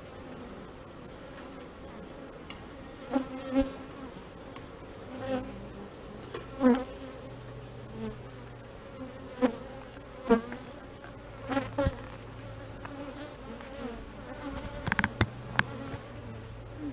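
Honey bee colony buzzing steadily around an opened hive, with single bees droning close past and fading; the bees are stirred up enough to need calming with smoke. A dozen sharp knocks and clicks come and go, clustered near the end.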